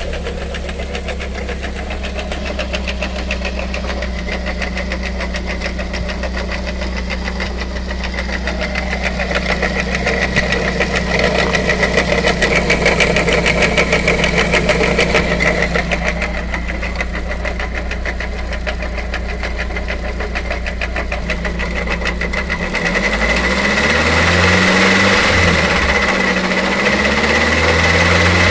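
Dongfeng C37 minivan engine running at idle with a steady high-pitched tone over it, then revved up and down several times over the last few seconds. The noise comes from the belt-driven water pump, which the mechanic finds defective: it goes away once the accessory belt is removed.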